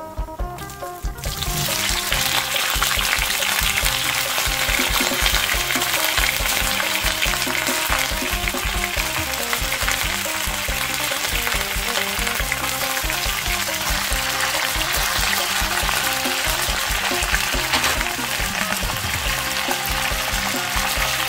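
Green beans dropped into hot oil in a wok: a loud sizzle starts about a second and a half in and the beans keep frying steadily, with background music underneath.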